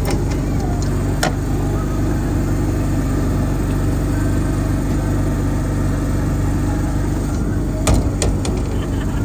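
An engine runs steadily with a low hum, and a few sharp clicks and knocks come about a second in and again near the end.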